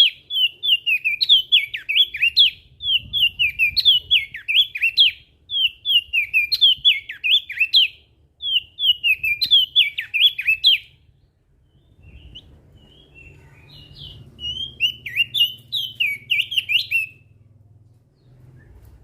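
Crested white-eye (opior jambul) singing: quick bursts of sharp, chattering up-and-down notes, repeated phrase after phrase with short pauses. The bird stops for a few seconds in the middle, then sings again before falling quiet near the end.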